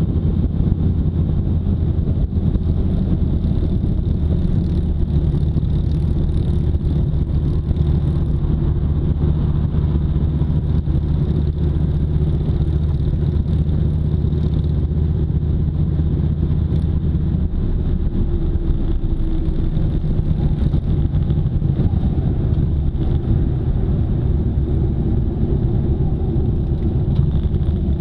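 Motorcycle engine running steadily under way, its note changing about two-thirds of the way through.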